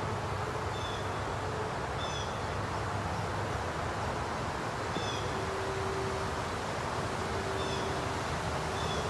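Outdoor ambience: a bird repeating a short high chirp every second or two over a steady rushing background noise, with faint high insect buzzing.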